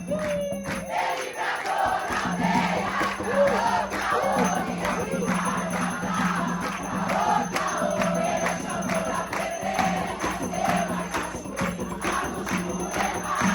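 Religious ritual music for Xangô: rhythmic drumming with jingling bells, and a crowd's voices wavering over it, briefly thinning about a second in.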